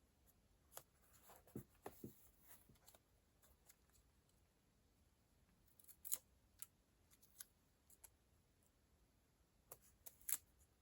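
Faint desk sounds of stationery being handled: scattered light clicks and taps with a soft rustle of paper. A sharper click comes about six seconds in and another near the end.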